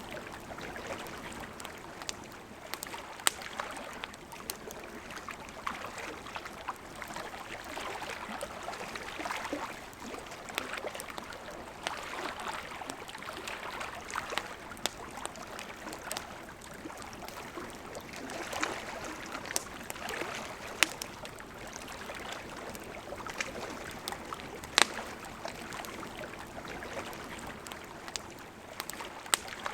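A river flowing steadily, with the sharp pops and crackles of a campfire every few seconds. The loudest pop comes about 25 seconds in.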